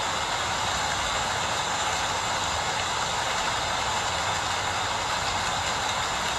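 Steady rain falling, an even, unbroken hiss, with a weaker low rumble underneath.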